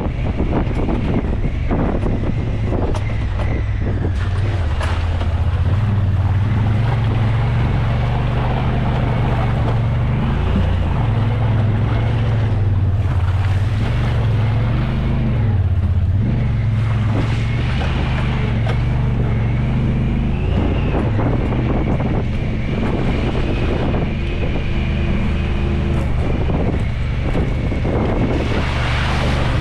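A vehicle's engine running while driving, its low drone dipping and rising in pitch with the speed, under steady road and wind noise.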